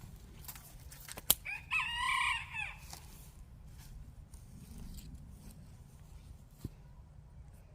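A rooster crowing once, a crow lasting about a second, just after a single sharp snap about a second in.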